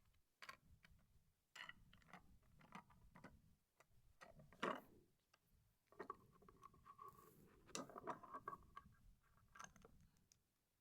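Faint clicks and light knocks of plastic LEGO pieces being handled and pressed together, irregular, with one louder click about halfway through.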